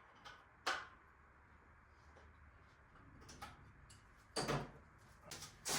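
A few sharp clicks and knocks against a quiet background, loudest as a pair about two-thirds of the way through: parts and tools being handled as an engine and transmission are worked loose from a truck.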